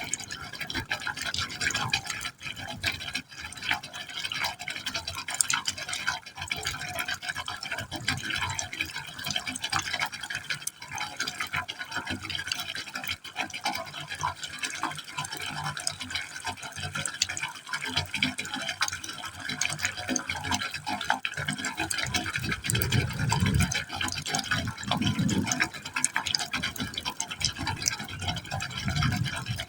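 Water falling steadily into a pipe hole, splashing and gurgling continuously, with deeper hollow gurgles swelling toward the end.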